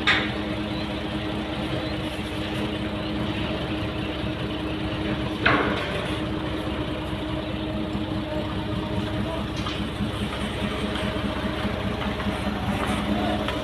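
Truck crane's diesel engine running steadily, with two sharp knocks, one at the start and one about five and a half seconds in.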